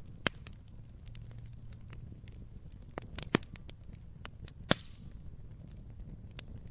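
Wood fire crackling: irregular small ticks and a few sharp pops, the loudest about three and a half seconds and nearly five seconds in, over a low steady rumble.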